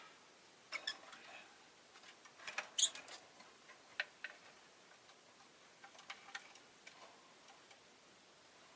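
Rosy-faced lovebird making faint, scattered short chirps and clicks, with a sharper high chirp about three seconds in.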